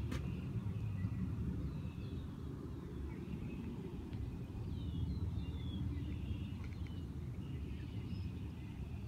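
Faint birds chirping in the background, several short calls and down-slurred notes, over a steady low rumble.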